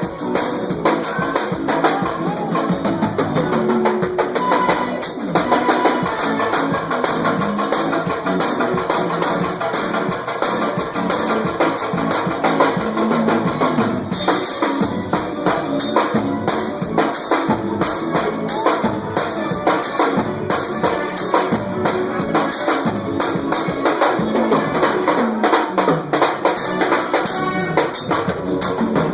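Forró band playing live at a sound check, with a drum kit's bass drum and snare keeping a steady beat under the other instruments.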